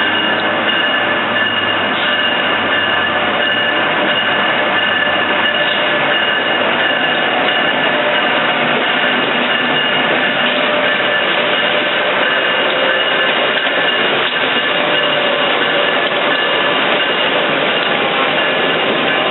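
A train rolling along the track with steady high-pitched squealing from its wheels on the rail, over a constant rumble of the cars.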